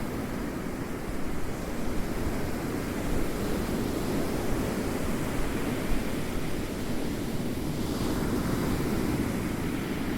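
Ocean waves rolling in a steady, deep wash that swells gently every few seconds. There is a brief brighter hiss of surf about eight seconds in.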